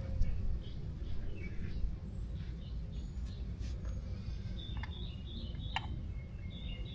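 Light clicks and handling noises over a steady low rumble, from fitting an ATV's oil filter and cover by hand. A bird chirps in the background during the second half.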